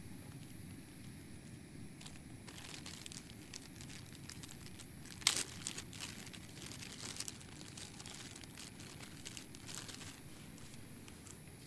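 Crinkling and crackling of a plastic or foil wrapper being handled, in irregular clusters, with one sharper crackle about five seconds in.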